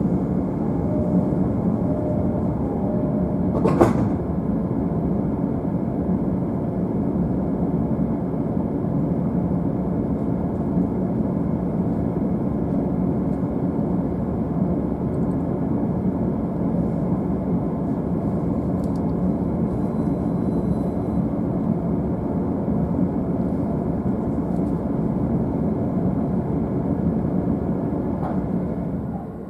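Steady low rumble inside the upper deck of a JR East E531 series double-deck Green car, with one sharp clack about four seconds in. The rumble drops in level about a second before the end.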